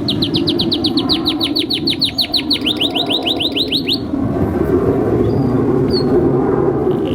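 Domestic canary singing a fast trill of repeated falling notes, about seven a second, for some four seconds before breaking off. A steady low background noise runs underneath throughout.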